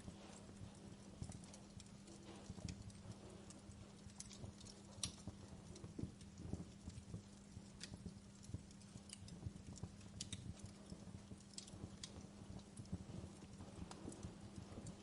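Wood fire crackling in a fireplace: irregular sharp pops and snaps from the burning logs, several a second, over a soft low rumble of flame, with a faint steady low hum underneath.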